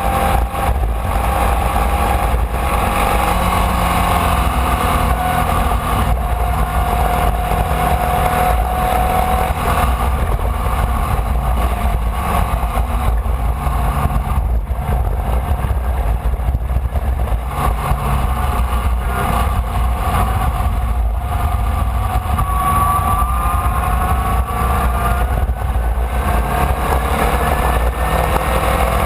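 Formula Vee race car's air-cooled Volkswagen flat-four engine running hard at racing speed, heard on board over steady wind and road noise. The engine note holds steady for the first several seconds and climbs in pitch near the end as the car accelerates.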